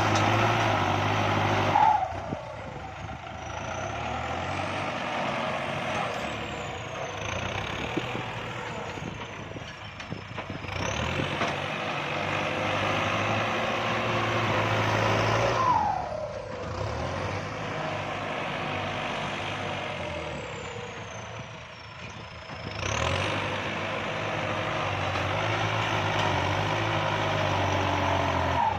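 Kubota tractor's diesel engine working while building up a rice-paddy bund, its revs dropping and then climbing again twice over, with the engine louder after each climb.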